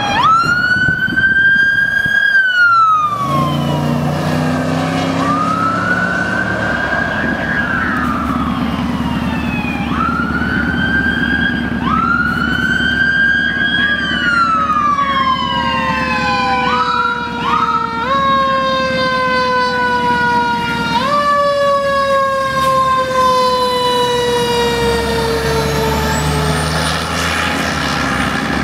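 Fire apparatus sirens sounding while responding: a siren winds up quickly, holds and falls slowly, over and over, and from about halfway on two or more sirens overlap at different pitches, over the steady sound of truck engines.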